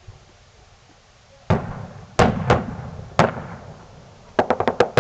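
Fireworks going off: four loud bangs with echoing tails starting about a second and a half in, then a quick string of about six sharp cracks near the end.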